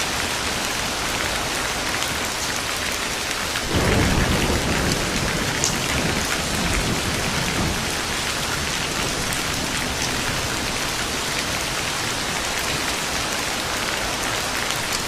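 Steady heavy rain falling, with a roll of thunder that comes in about four seconds in and rumbles away over a few seconds.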